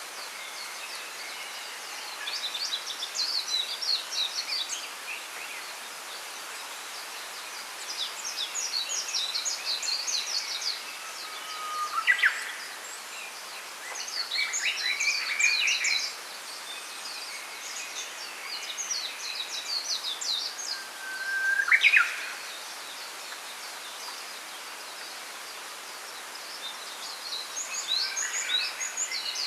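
Wild songbirds singing in a bamboo grove: bursts of rapid, high twittering phrases every few seconds over a steady background hiss. Twice, once near the middle and again about three-quarters through, a louder song stands out: a held whistled note that breaks into a quick rising note.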